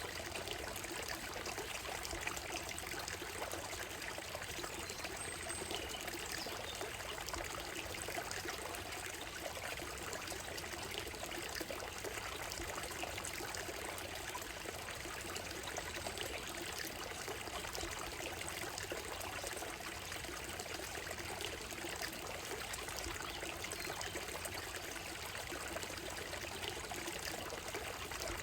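Small stream running steadily over a gravel and stone bed, an even babbling and trickling of water.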